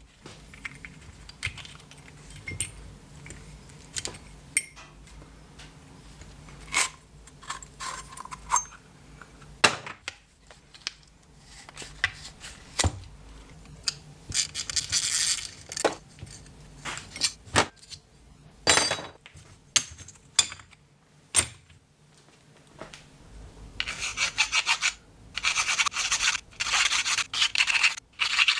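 Parts being handled in a workshop: scattered clicks and knocks, with a short spell of rubbing or scraping about halfway and a longer one near the end.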